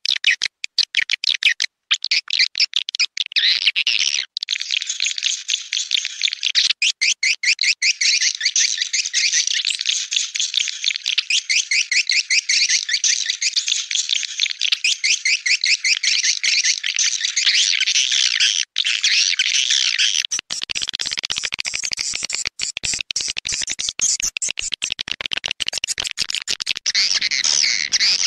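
Swiftlet lure-call recording: a dense, continuous high-pitched chatter of rapid, buzzy twittering calls from many edible-nest swiftlets.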